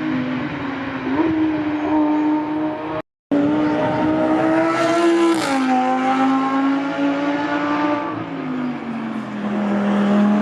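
Race car engines running at high revs, their pitch holding, gliding and stepping down a few times. The sound cuts out completely for a moment about three seconds in.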